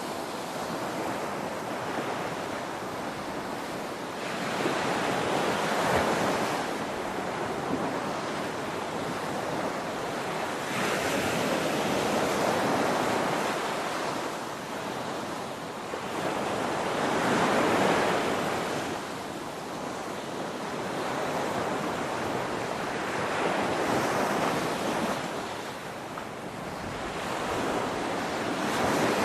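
Ocean surf: waves breaking and washing ashore in a continuous rush, swelling and easing every few seconds.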